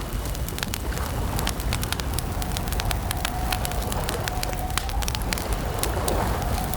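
Wood campfire crackling: frequent sharp pops and snaps over a steady low rumble of the flames.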